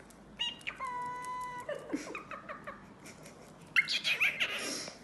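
Cockatiel calling: a short chirp, then one steady whistled note held for about a second, and near the end a louder burst of raspy chirps.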